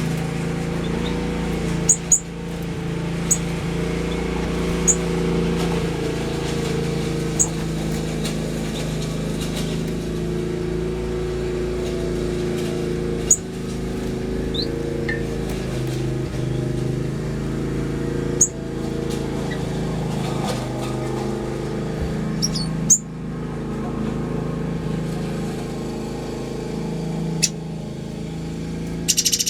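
Aviary finches and waxbills giving short, sharp high chirps every few seconds over a steady low mechanical drone.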